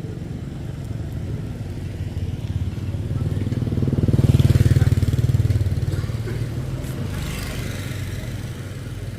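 A vehicle engine running steadily, swelling louder about four seconds in and easing off again.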